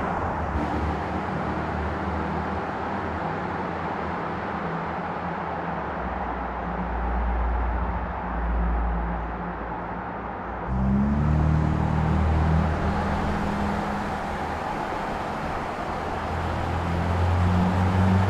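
Car engine running as the car drives, with a steady low engine note under road noise; about eleven seconds in the sound changes abruptly and the engine note rises.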